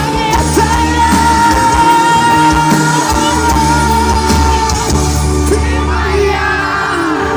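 Live pop-rock band music through a concert sound system, with a voice holding one long high note for about five seconds over the band.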